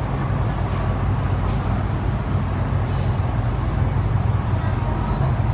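Cabin running noise of an MTR East Rail Line R-Train electric multiple unit in motion: a steady low rumble of wheels on rail and running gear, heard inside the carriage.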